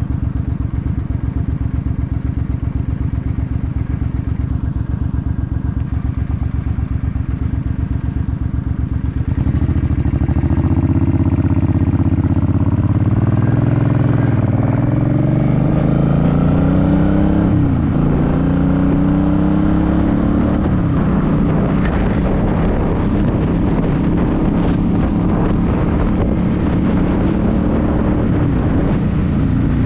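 2006 Suzuki C50's V-twin engine running steadily at low revs, then pulling away: the pitch climbs as it accelerates, drops briefly at two gear changes, and settles into a steady cruise.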